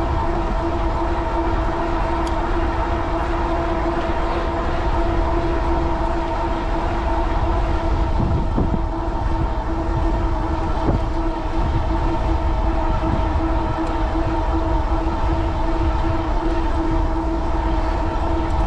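Steady whine from the e-bike's 750 W Bafang rear hub motor running under pedal assist, holding one pitch with its overtones, over a low rumble of wind on the microphone.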